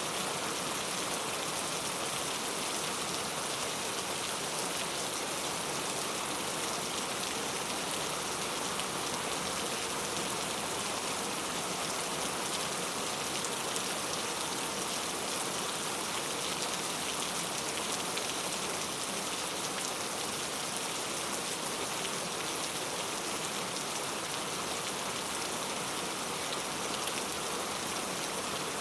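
Heavy rain falling steadily on hard surfaces, a constant dense hiss of drops.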